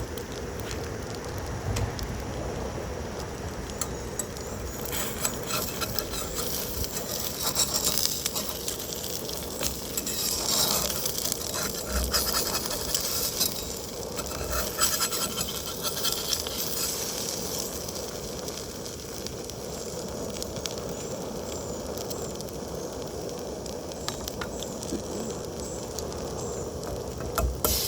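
Food sizzling in a frying pan, a steady hiss peppered with small pops that grows busier about five seconds in.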